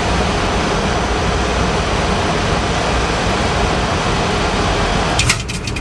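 Steady cockpit noise of a Boeing 737-400 on final approach with gear down and flaps at 30: a rush of airflow over a low engine hum, with a faint high steady tone. A few sharp clicks come near the end.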